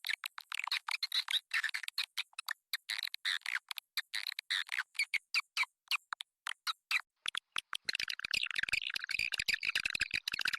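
Recorded swiftlet calls used as a lure to draw swiftlets into a nest house: rapid runs of short, high chirps and clicks. About eight seconds in they thicken into a dense, continuous twittering.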